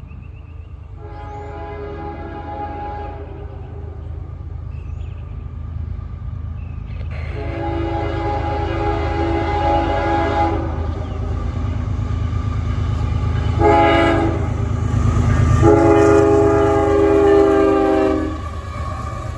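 Diesel locomotive's air horn on a loaded CSX coal train sounding long, long, short, long, the standard grade-crossing warning, over the low rumble of the locomotive's engine growing louder as it approaches.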